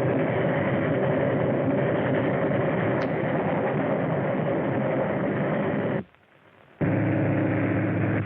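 Loud, steady vehicle noise on an old film soundtrack. About six seconds in it drops out for under a second, and then a steadier, lower drone resumes.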